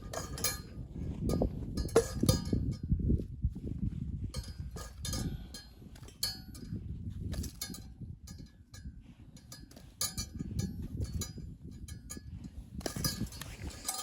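Irregular small knocks and metallic clinks, as of gear being handled, over a low rumble.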